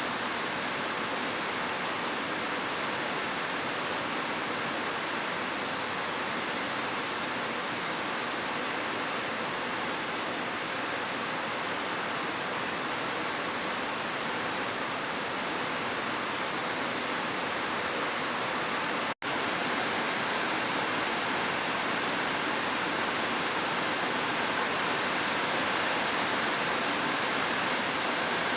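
Heavy rain falling in a steady, even hiss, with a brief dropout about two-thirds of the way through.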